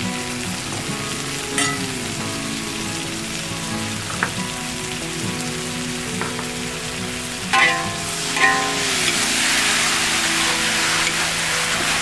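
Chopped red chilies frying in hot oil in a wok, a steady sizzle that grows louder once a metal ladle starts stirring the mix about nine seconds in, with a few sharp clicks. Soft background music with held notes plays underneath.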